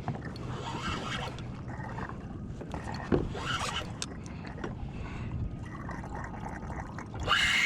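Water lapping and gurgling against a plastic kayak hull, with scattered knocks of gear on the boat and one sharper knock about three seconds in. Near the end a loud cry falls steeply in pitch.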